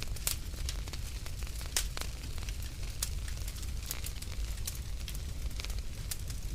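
Wood fire burning in a fireplace: a steady low rumble with sharp, irregular crackles and pops.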